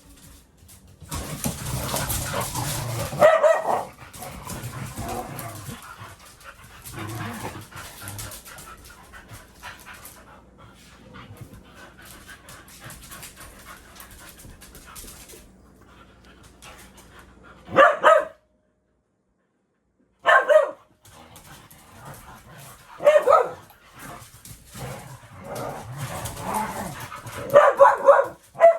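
Dogs barking in short bursts, several times in the second half, after a loud stretch of scuffling noise in the first few seconds.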